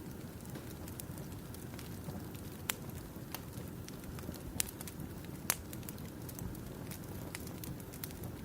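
Campfire crackling: a steady low rush of burning wood with scattered small pops and three sharper, louder snaps through the middle.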